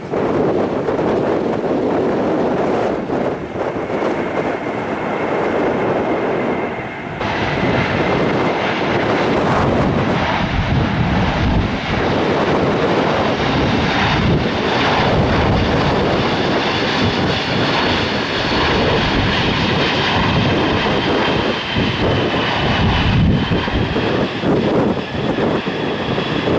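Large jet transport aircraft's turbofan engines running loud and steady, with a whine that grows brighter about seven seconds in, and wind buffeting the microphone.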